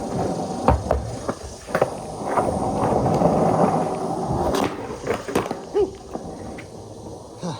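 Skateboard rolling with its wheels making a steady rumble, and several sharp clacks along the way.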